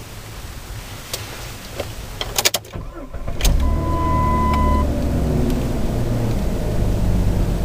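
Jeep Grand Cherokee engine starting about three and a half seconds in, flaring briefly and settling to a steady idle. A few sharp clicks come just before it catches, and a steady electronic chime sounds for about a second just after.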